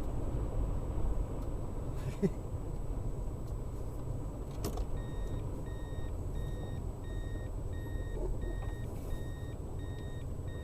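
Strong wind rumbling on the microphone by a vehicle. About halfway through there is a click, and then a car's warning chime starts beeping steadily, about once every 0.7 seconds.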